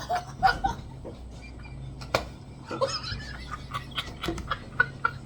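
A person snickering quietly, with scattered small clicks and one sharp click about two seconds in.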